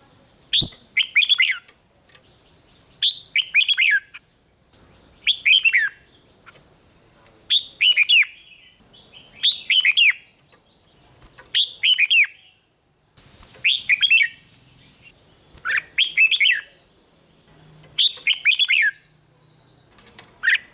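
Red-whiskered bulbul singing: a short phrase of quick, sweeping whistled notes repeated about every two seconds, with a faint steady high tone underneath.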